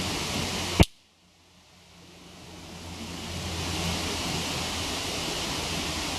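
Steady rushing of a waterfall, broken about a second in by one sharp crack, likely a burning log popping in the campfire. Right after the crack the sound drops out almost completely and swells back over the next few seconds, as a recorder's automatic gain does after a sudden loud sound.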